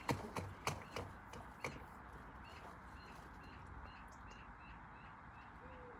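A run of knocks that fade away within the first two seconds, then a faint steady hiss with a quick series of small high chirps, about four a second, in the middle.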